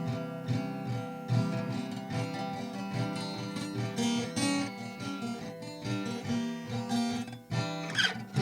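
Acoustic guitar playing a song's introduction, with steady strumming and plucked notes over a regular bass pulse.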